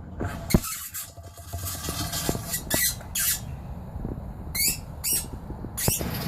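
Several short squeaky scrapes, about five, of a pipe rubbing against the heating-oil tank opening as it is pulled out and straightened, with one sharp click near the start.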